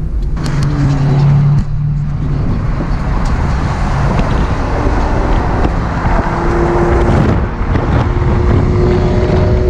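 A car engine running loud as the car drives, with road noise, its engine tone shifting in pitch about six seconds in.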